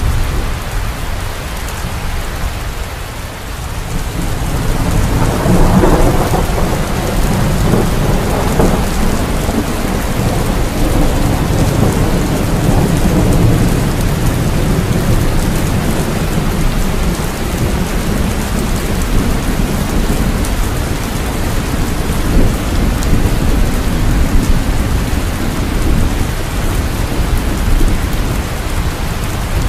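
Steady heavy rain, with a long roll of thunder that swells about five seconds in and slowly fades.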